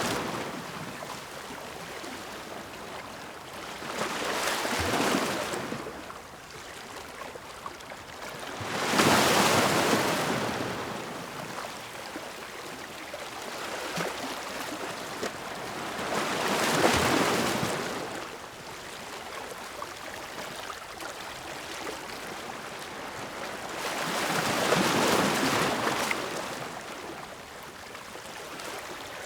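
Ocean waves breaking: four louder surges, roughly every seven or eight seconds, each swelling up and fading over a second or two, with a steady wash of surf between them.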